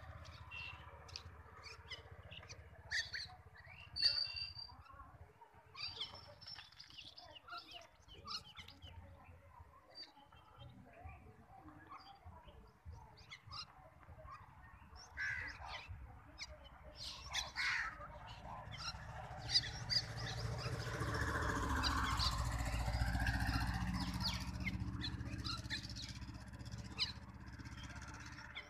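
Birds calling outdoors, with crows cawing among scattered chirps. A low rumble swells up about two-thirds of the way in and fades near the end.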